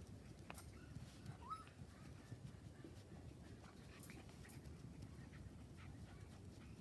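Puppies playing: one short, faint rising squeak about a second and a half in, with light scattered clicks and scuffles over a low background rumble.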